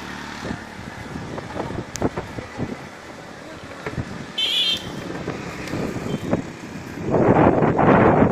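Strong wind buffeting the microphone in rough, crackling gusts, growing much louder about seven seconds in, with a brief high-pitched sound about halfway through.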